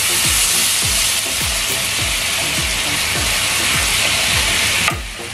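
Butter and honey sauce sizzling in a nonstick frying pan while it is stirred with a plastic spoon; the sizzle drops away near the end. A regular low thud, about three a second, runs beneath it.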